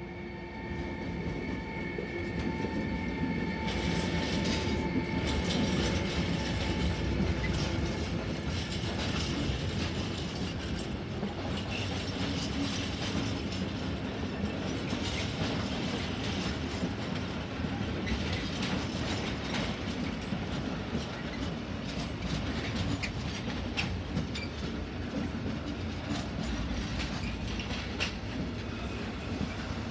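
DB Cargo Class 189 electric locomotive passing with a few steady whining tones that fade within the first few seconds, then its mixed freight train of tank and flat wagons rolling by, the wheels rumbling and clacking over the rail joints.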